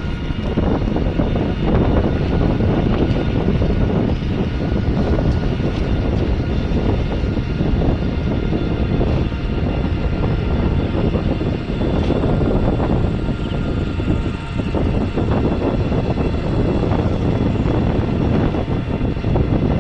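Steady rumble of a moving vehicle, with a few faint steady whining tones above it.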